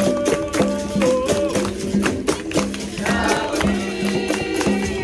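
Capoeira roda music: voices singing held, sliding notes over percussion with many sharp strokes a second, including a jingling pandeiro. From about three seconds in, more voices join the singing.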